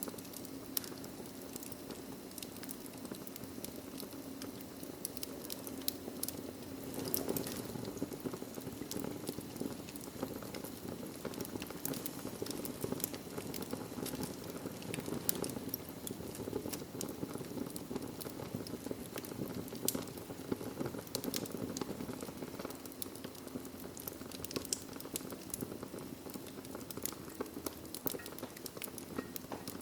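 Wood fire burning in a fireplace: a steady low rush of flame with irregular crackles and small sharp pops throughout.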